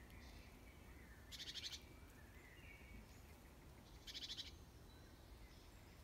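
Faint outdoor birdsong: soft whistling calls in the background, and two short rapid trills, one about a second and a half in and another about four seconds in.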